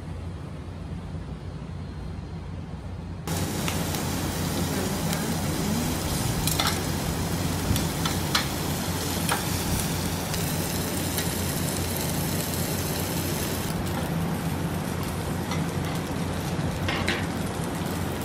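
A steady low hum; about three seconds in, pork belly starts sizzling on a tabletop grill, with a few sharp clicks of metal tongs against the grill.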